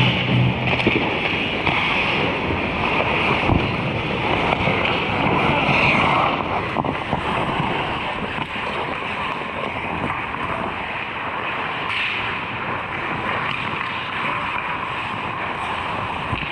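Steady, noisy hockey rink ambience from the game, with a few faint knocks.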